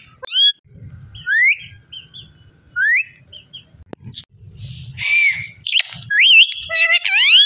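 Pet parrot whistling and calling: a string of short rising whistles about every second and a half, a harsher squawk about halfway, then a quick run of rising calls near the end.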